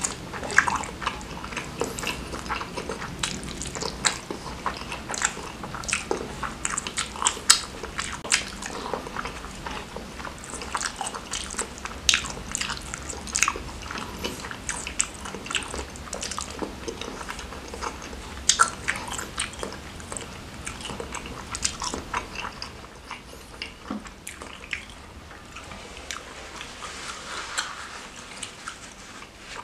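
Close-miked chewing and eating of rice mixed with spicy noodles. A steady run of short clicking mouth sounds that grows sparser and quieter after about twenty-two seconds.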